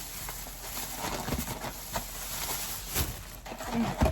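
Rustling and clicking of takeout food packaging being handled, with a louder knock near the end.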